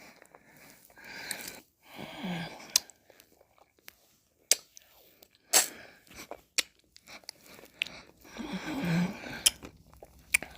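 Close-up mouth sounds of eating ice cream: three spells of wet licking and sucking, with sharp lip and tongue clicks scattered in the gaps between them.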